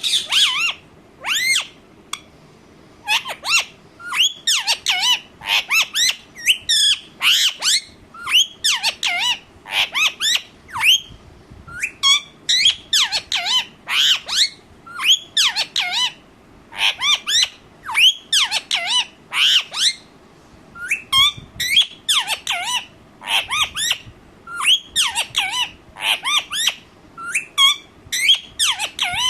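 Ringneck parrot squawking over and over: short, shrill, pitch-bending calls in rapid runs separated by brief pauses, which the owner takes for the bird being angry.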